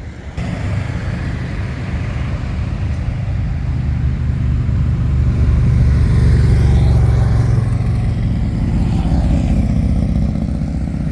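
A car engine running, growing louder over the first six seconds or so and then holding steady.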